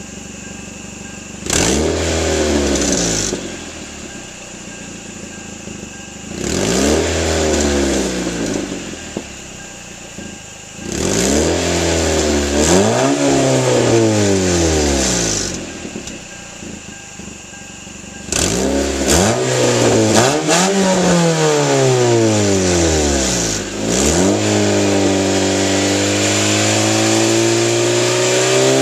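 2003 Hyundai Tiburon's 2.0-litre four-cylinder engine revved through its mostly stock exhaust: several quick blips that rise and fall back to idle, then the revs held and climbing slowly near the end.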